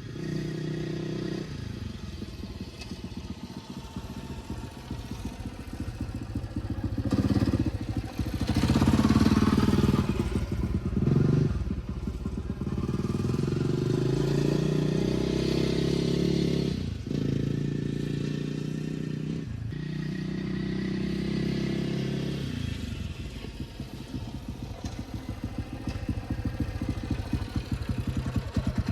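Husaberg FE 350 dirt bike's single-cylinder four-stroke engine running on a ride, revving up and pulling harder about a quarter of the way in, with two brief dips in the engine sound a little past halfway, then settling to a lower, pulsing run near the end.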